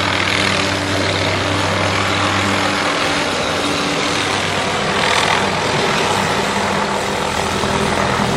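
Tree-trimming helicopter with its suspended aerial saw working overhead: a steady rotor and engine drone with a constant low hum under a broad rushing noise.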